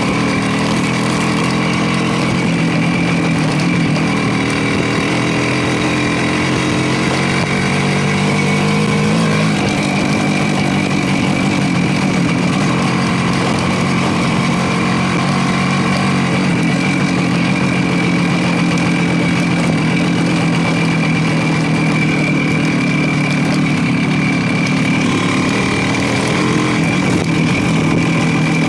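Motorcycle engine running steadily, its pitch rising and falling a little with the throttle.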